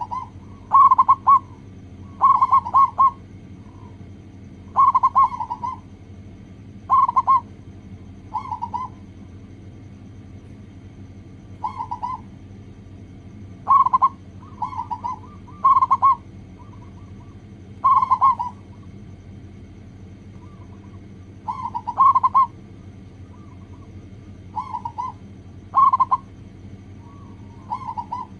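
Zebra dove (perkutut) cooing in short clusters of staccato notes, about one phrase every two seconds, over a steady low hum.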